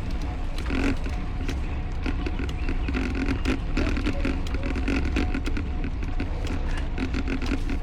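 Wind rumbling on the microphone of a camera riding on a road bicycle, with scattered clicks and rattles.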